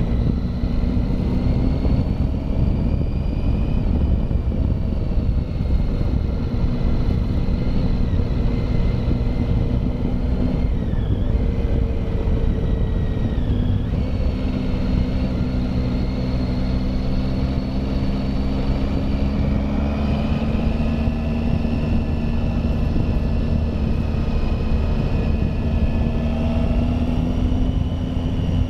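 Triumph Tiger motorcycle engine running under way on a climbing road, with a steady rush of wind noise underneath. The engine note drops briefly about eleven seconds in and settles a little higher from about twenty seconds in.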